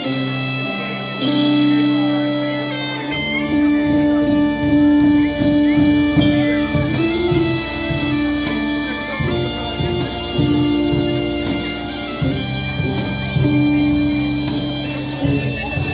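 Bagpipes playing a tune over a steady drone. Drums join about three seconds in.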